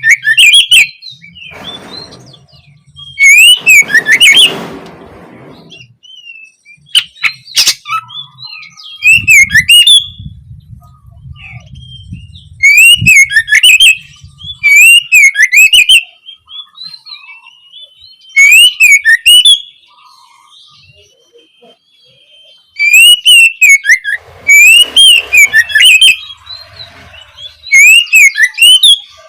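Oriental magpie-robin (kacer) singing: loud, repeated whistled phrases about a second long, with short pauses between them.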